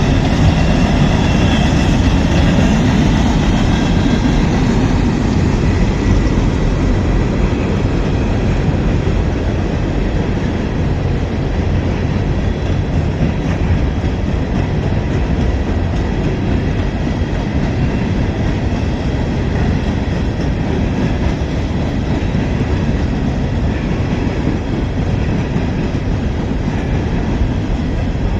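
A train rolling past at close range: a steady, loud rumble of wheels on the rails.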